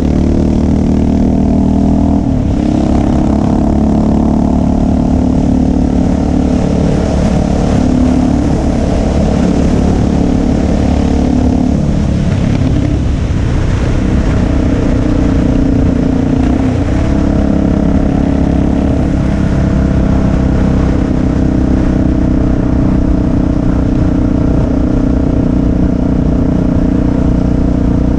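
Motorcycle engine running steadily under way, loud throughout. Its pitch shifts a few times, about two seconds in, around twelve seconds and again near seventeen seconds.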